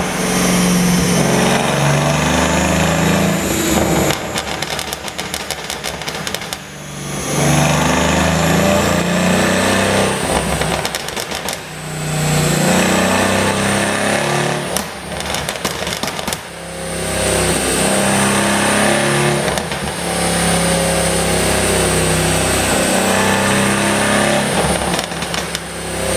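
Mercedes-AMG C63 S twin-turbo V8 exhaust, with a pop-and-crackle tune. It runs hard under throttle for a few seconds at a time, and about four times it drops back into a rapid string of crackles and pops as the throttle is lifted.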